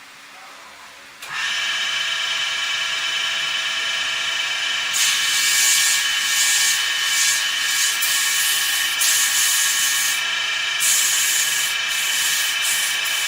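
A woodworking machine starts up about a second in with a steady whine. From about five seconds in, a loud uneven hiss of wood being cut rises and falls over the whine.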